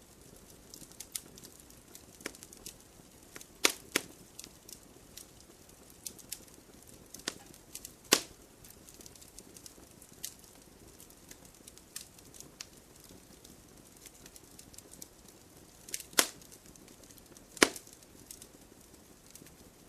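Wood campfire crackling: a faint hiss under scattered sharp pops and ticks, with a handful of louder snaps at irregular moments.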